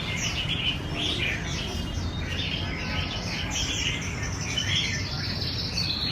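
Red-whiskered bulbul song: a continuous run of short, quickly varied chirping and warbling phrases.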